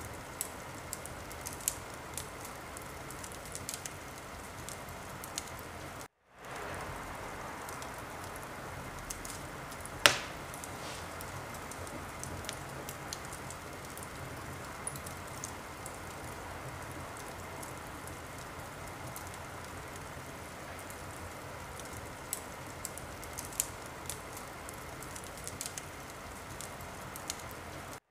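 Wood fire in a fireplace crackling: a steady hiss with scattered small pops and one sharp, loud pop about ten seconds in. The sound cuts out for a moment about six seconds in.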